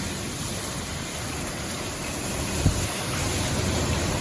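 Heavy rain and storm wind making a steady rushing noise, with a brief low thump about two and a half seconds in.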